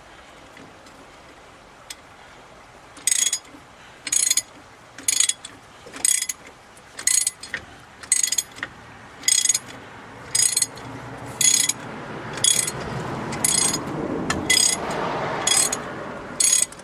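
Socket ratchet wrench clicking in short bursts about once a second, each back-swing of the handle on a fastener. From about ten seconds in, a rougher, louder scraping noise builds under the clicks and eases off near the end.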